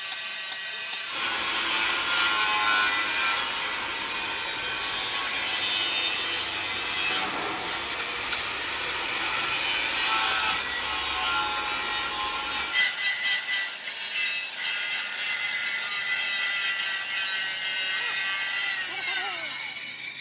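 A tool cutting into the steel of a truck chassis frame, a dense, steady sawing noise. It changes character abruptly about a second in and again about two-thirds of the way through, then stops suddenly at the end.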